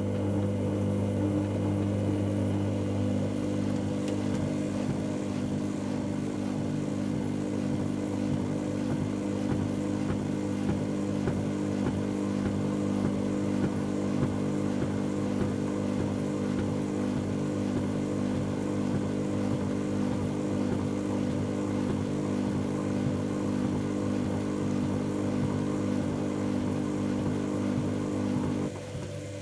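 Dyson Contrarotator CR01 washing machine running its wash, the motor turning its two drums with a steady humming drone of several tones. The drone stops briefly about a second before the end, then starts again at a slightly different pitch.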